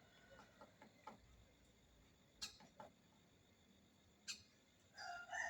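Woodpecker pecking at a dry trunk while excavating a nest hole: a handful of sharp, separate taps at uneven intervals. A rooster starts crowing near the end.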